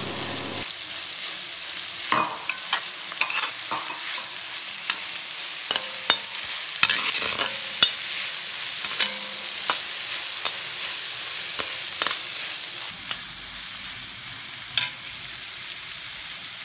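Sliced onions sautéing in coconut oil in a cast-iron wok: a steady sizzle with the scrape and clack of a steel spatula stirring them. The stirring stops about three-quarters of the way through and the sizzle carries on softer.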